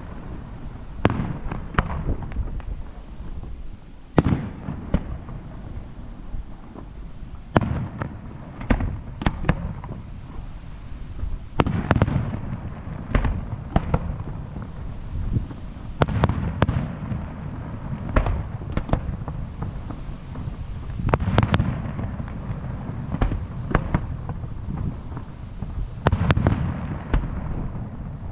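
Aerial fireworks shells bursting one after another: a steady run of sharp bangs, some in quick clusters, each followed by a low rolling rumble.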